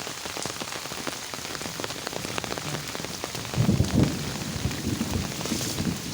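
Heavy rain falling onto a waterlogged courtyard, with many individual drop hits ticking through it. About three and a half seconds in, a brief louder low rumble rises over the rain for under a second.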